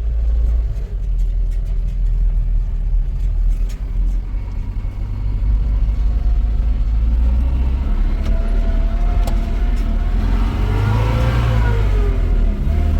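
A motor vehicle's engine running with a heavy low rumble, its pitch rising and falling as it revs in the last few seconds.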